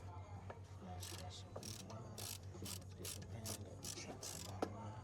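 Ratchet wrench being worked back and forth in quick strokes, each stroke a short clicking rasp, about three a second.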